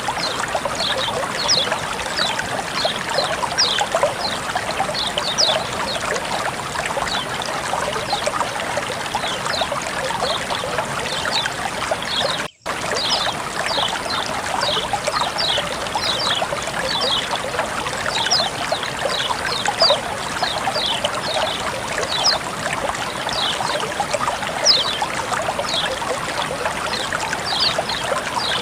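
Running water trickling and splashing steadily, with bright little splashes scattered through it. The sound drops out for a moment about halfway through.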